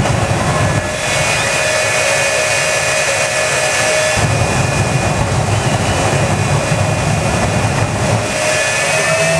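Xtreme Machine jet truck's jet engine running with a steady turbine whine over a loud rushing roar. The low rumble rises and falls.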